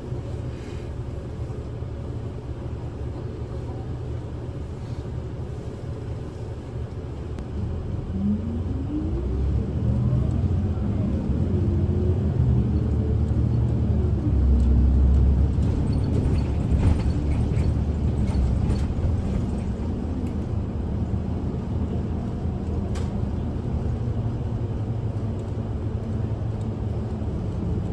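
Kyoto City bus heard from inside the cabin: steady low engine and road rumble, then about eight seconds in a whine rises in pitch and the rumble grows louder as the bus accelerates, before settling back into steady running.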